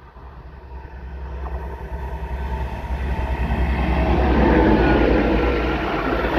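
Train approaching and passing close, getting steadily louder: a heavy diesel engine drones low beneath the rumble and rattle of the wheels on the track.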